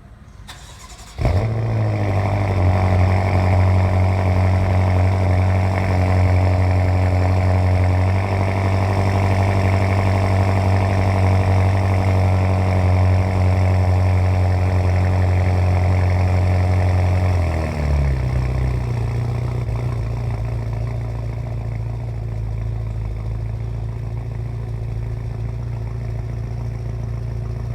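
BMW M5 F10's twin-turbo V8 cold start: the engine catches about a second in and settles into a high, steady fast idle. About seventeen seconds in, the revs drop to a lower, steady idle.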